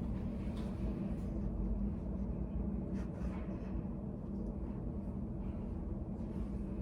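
Steady low hum of a study cafe's room ambience, with a few faint light ticks or scratches, about half a second in and around three seconds.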